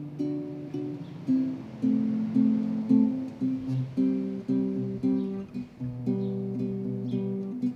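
Acoustic guitar playing an instrumental intro: plucked and strummed chords in a steady rhythm, a few notes ringing at a time.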